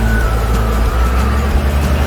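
Monster truck's engine running with a steady low rumble, with a faint high whine that slides slightly lower.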